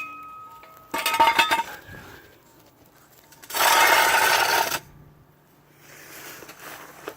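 Steel jack stand being handled: a sharp metal clank with a short ring, a rattling clatter a second later, then a harsh scraping noise lasting about a second.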